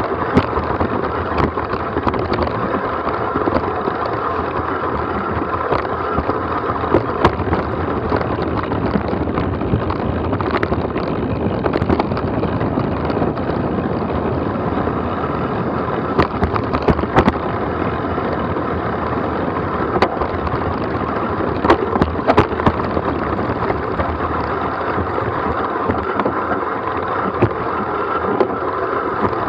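Steady rush of wind on the microphone and tyres rolling over a rough dirt trail, with frequent sharp knocks and rattles from bumps and loose stones along the descent.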